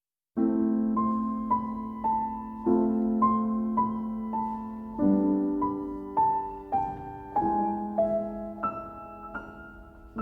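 Gentle piano music: single melody notes struck about every half second over held low notes.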